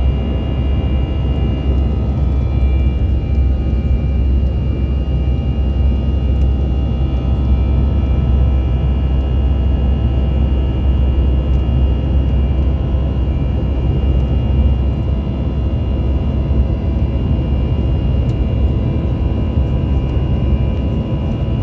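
Airplane cabin noise in flight: a steady, loud engine and airflow drone heavy in the low rumble, with a few thin steady whining tones over it.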